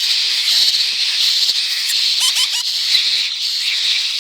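Baby birds begging for food: a steady, high-pitched chorus, with a short run of squeaky calls about two seconds in.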